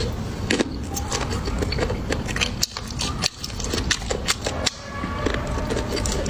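Close-miked eating sounds: chewing with a rapid, irregular run of mouth clicks and smacks.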